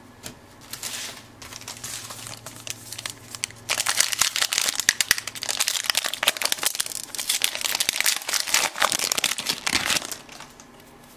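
Crinkling of a plastic baseball-card pack wrapper being handled, a dense crackle that grows louder and busier about four seconds in before dying away near the end.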